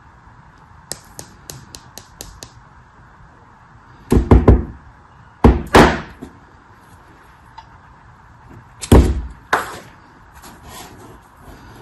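Close-miked handling sounds: a quick run of light ticks, then several heavy knocks and thuds, three of them loudest about four, five and a half, and nine seconds in.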